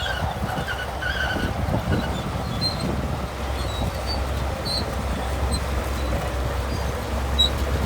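Shantui crawler bulldozer's diesel engine running under load, a steady low rumble, with short high squeaks scattered over it.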